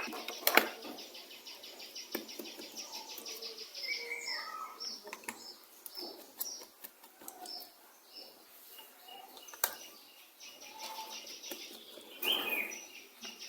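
Small birds chirping and twittering, short high notes and a few gliding calls, with a few sharp clicks among them.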